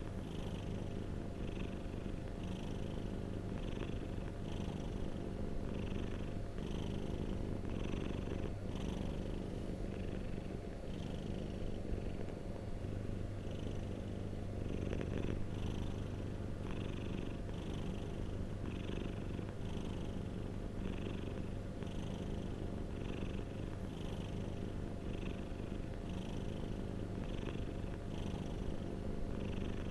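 A domestic cat purring steadily: a continuous low rumble with a soft, regular pulse about once a second.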